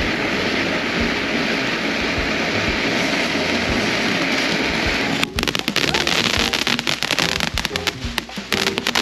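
A ground firework fountain spraying with a steady hiss. About five seconds in it breaks into rapid, dense crackling.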